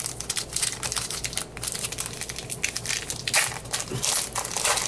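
Trading-card pack wrapper crinkling and crackling as it is torn open and handled, with a few louder crackles near the end.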